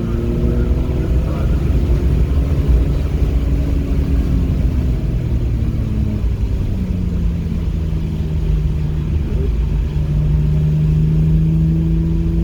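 Car engine heard from onboard under way on a wet track, with low road rumble. The engine note steps down about six seconds in, then climbs slowly as it pulls again.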